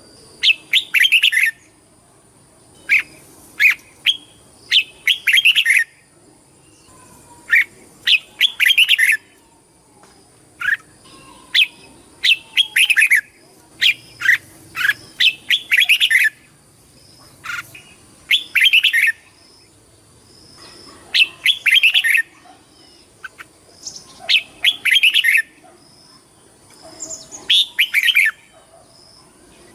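Red-whiskered bulbul singing: short, bright phrases of quick warbled notes, repeated every couple of seconds with brief pauses between.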